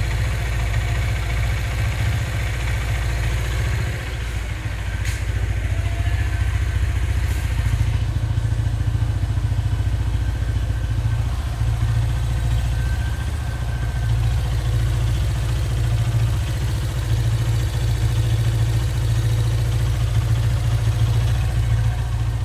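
Hero Honda CBZ motorcycle's single-cylinder four-stroke engine running steadily at idle with a knocking noise, which the owner takes for engine knock. It gets a little louder about a third of the way in.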